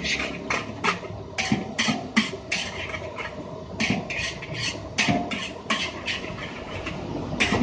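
Metal spatula scraping and tossing fried rice in a wok: a rapid, uneven run of short scratchy strokes, about two to three a second.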